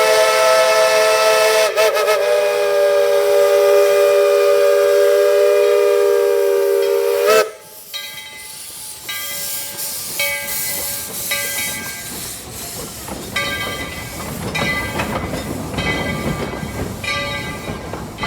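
Steam locomotive whistle blowing one long chord of several tones, cutting off sharply about seven seconds in. Then come hissing steam and a bell striking again and again, about once a second.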